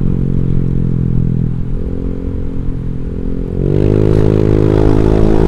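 Honda Vario 150 scooter's single-cylinder engine breathing through a Black Devil R2 Seca aftermarket exhaust, running steadily at low revs; about three and a half seconds in the throttle opens and the revs climb, the exhaust note getting louder and holding there.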